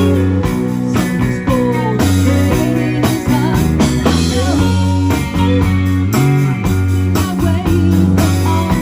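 Rock band playing an instrumental passage: guitar over steady bass notes and a regular drum beat, with a lead line that bends up and down in pitch.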